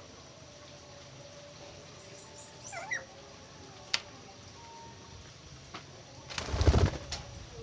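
Caged birds calling, with a short sliding call about three seconds in and a sharp click a second later. Near the end comes a loud rustle lasting under a second, the loudest sound here.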